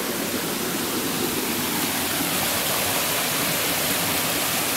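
Steady rush of flowing water in a stream.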